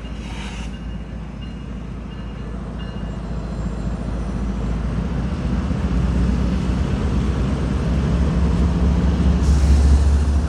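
Train rumbling past, a low rumble that builds steadily and is loudest near the end.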